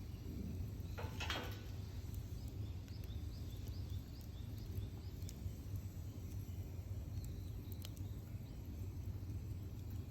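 Wood fire burning outdoors with a few faint crackles over a steady low rumble, while a bird calls a run of short repeated high notes, about three a second, a few seconds in.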